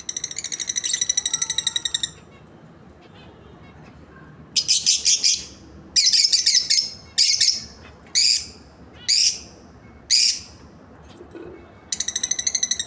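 Lovebirds calling: a fast, high-pitched chattering trill, then a string of shrill chirps about once a second, and the rapid trill again near the end.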